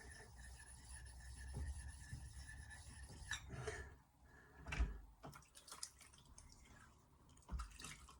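Faint water drips from a freshly rinsed splash-and-go sharpening stone: a handful of separate drops and light taps, the loudest just before the five-second mark, over a low steady background.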